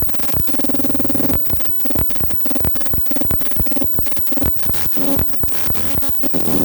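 Experimental electronic music played on hardware synthesizers: a dense run of fast clicks and noisy percussive hits over a choppy, pulsing low tone.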